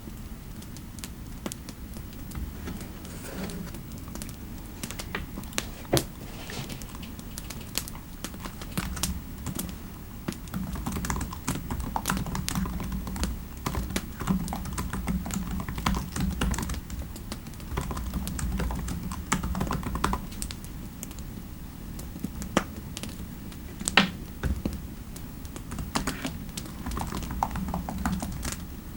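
Computer keyboard typing in uneven bursts of rapid keystrokes, with two sharper, louder key strikes standing out, one about six seconds in and one some seconds before the end, over a low steady background hum.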